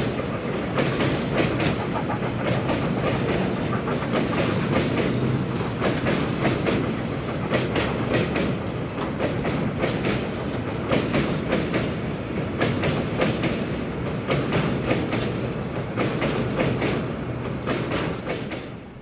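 Railway train rolling past, its wheels clicking rhythmically over the rail joints, with a steady rumble underneath; the sound dies away at the very end.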